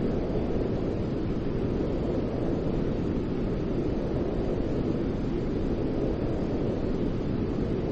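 Steady, unchanging white noise for sleep, weighted toward the low end so it sounds like a deep whoosh rather than a bright hiss.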